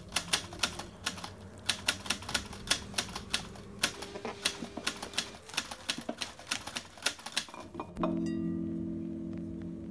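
Sharp, irregular clicks, several a second, for about eight seconds; then music with soft held notes comes in.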